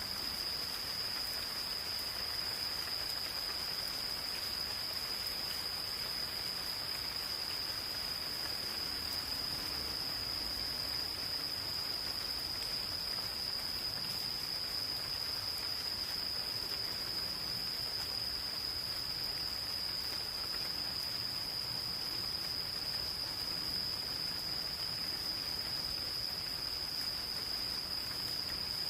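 Insects calling in one unbroken, steady high-pitched trill over the soft, even hiss of gentle rain falling in a forest.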